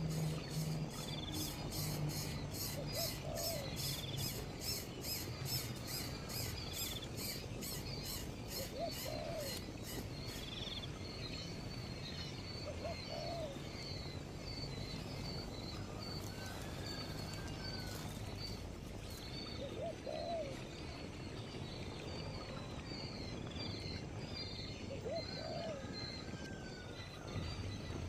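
Outdoor bird sounds: a short, low hooting call repeats about every four to six seconds over small high chirps. A fast, high pulsing runs through the first third and then stops.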